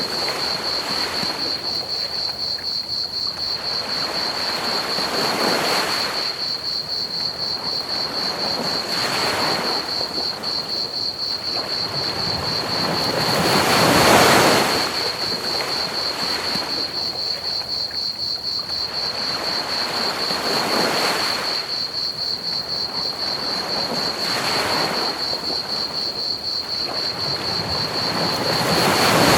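Ocean waves breaking on a beach, swelling and fading every few seconds, loudest about halfway through and again near the end. Under them runs a steady, rapid chirping of crickets and a constant hiss of pink noise.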